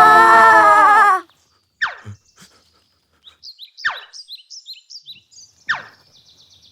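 A loud held musical chord cuts off about a second in. After it come three quick falling whistle sweeps, about two seconds apart, with small high bird-like chirps between them.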